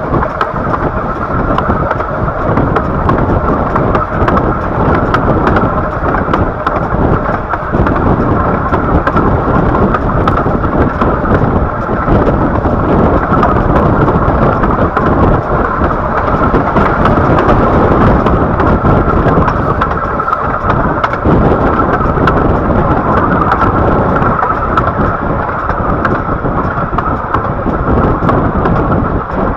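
Riding in a 15-inch gauge miniature railway train on the move: a steady, loud rumble of the carriage running on the track, with wind buffeting the microphone.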